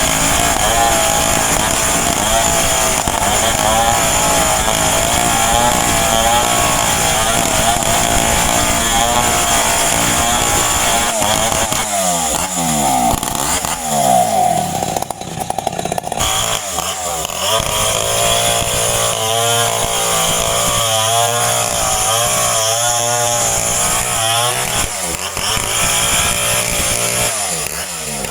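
Two-stroke chainsaw running hard and cutting, its engine pitch repeatedly dropping and rising again as the chain takes load; from about halfway through the pitch swings up and down more quickly.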